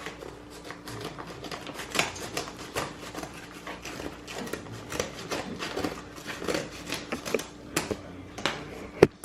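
A gift being unwrapped: paper and packaging crinkling and rustling in quick, irregular crackles, with one sharp snap near the end.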